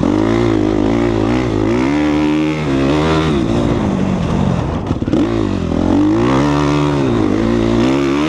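2014 Suzuki RM-Z250 four-stroke motocross bike engine ridden hard, its revs rising and falling again and again under throttle. It drops off briefly about two and a half seconds in and again around five seconds in, then picks straight back up.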